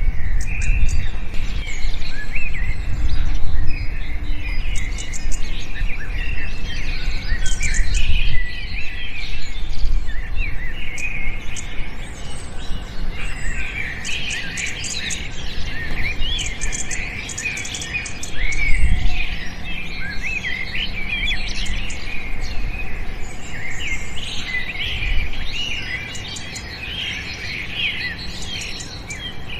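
Many small birds chirping and twittering at once, a dense chorus of short high chirps and quick trills, with a low rumble at times underneath.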